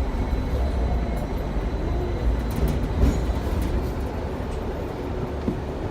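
Hong Kong double-decker tram running along its street track, heard from aboard: a steady low rumble of steel wheels on the rails, with a few short rattles and one louder knock about three seconds in.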